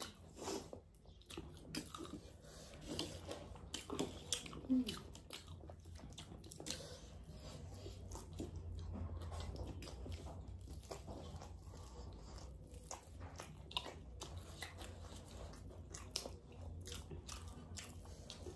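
People chewing and biting into chicken wings, with many short crisp crunches scattered throughout over a low steady hum.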